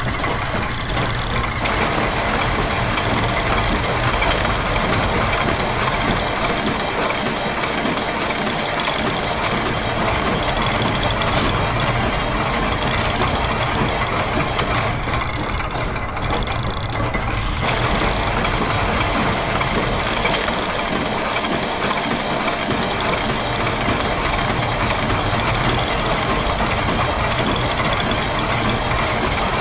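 Dense layered factory machine sounds: gears, ratchets and clockwork-like mechanisms clicking and whirring over a steady low machine rumble, looped and overlapping so the rhythms drift against each other.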